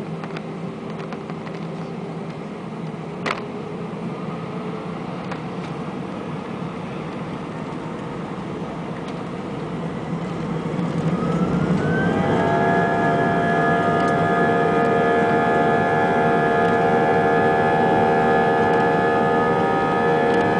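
Airbus A320's jet engines heard from inside the cabin, running with a steady whine, then spooling up about halfway through: several tones rise in pitch and the sound grows louder, then holds steady as the engines reach takeoff thrust. A single sharp click a few seconds in.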